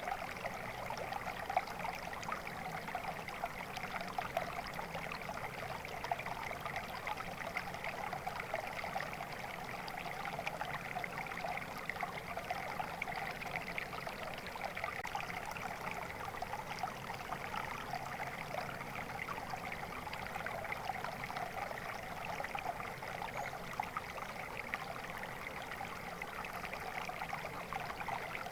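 Stream water flowing and trickling steadily, a continuous babbling with a fine, bubbling texture.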